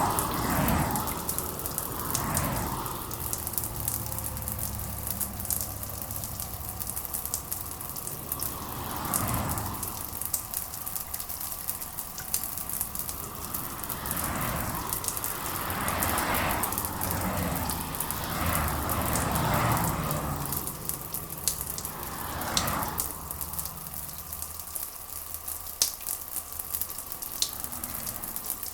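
Steady rain with a fine crackling patter, under soft swells of sound in the middle range that come and go every few seconds.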